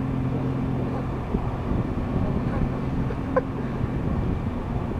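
Nissan GT-R's twin-turbo V6 idling with a steady low hum. A brief high chirp sounds about three and a half seconds in.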